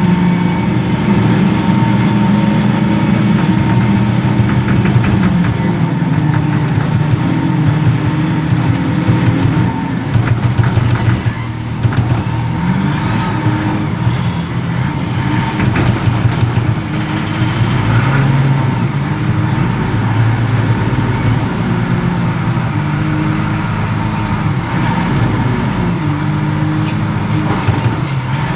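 Reach stacker's diesel engine running, its pitch rising and falling again and again as it revs up and down.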